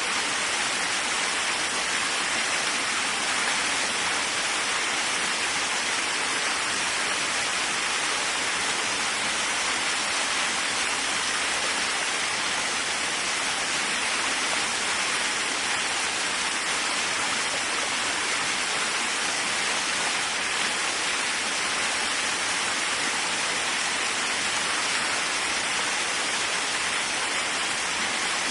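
Waterfall: a steady, unbroken rush of falling water, hissy and bright, with no change in level.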